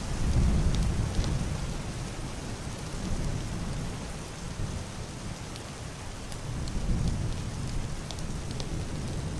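Heavy rain on a roof and window window glass, a steady hiss with scattered sharp drops. Muffled, distant thunder rolls low under it: the loudest swell comes in the first second or so, and a smaller one about seven seconds in.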